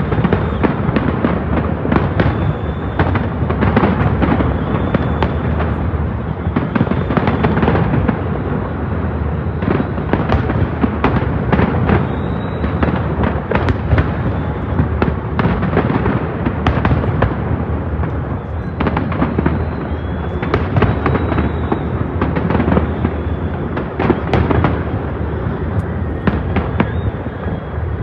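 Massed display fireworks going off in a dense barrage: rapid, overlapping bangs and crackles, several a second without a break, over a continuous low rumble.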